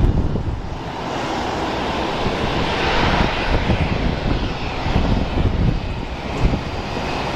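Jet engines of an Airbus A319 (IAE V2500 turbofans) on landing, a broad rushing roar that swells to its loudest about three seconds in, with gusts of wind rumbling on the microphone.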